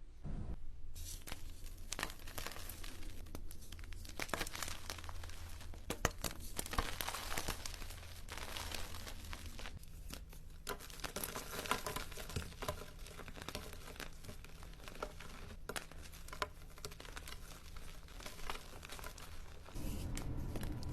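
Close-miked crinkling and crackling of something being handled for ASMR: dense, irregular small crackles, with a few louder sharp snaps in the middle.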